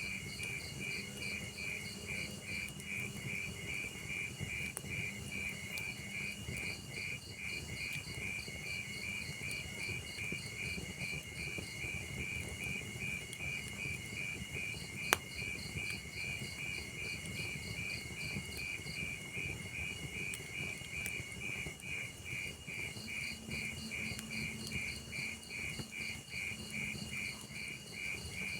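Crickets chirping in a steady, even pulse of about two or three chirps a second, over the low crackle of a log fire. About halfway through, one sharp pop stands out as the loudest sound.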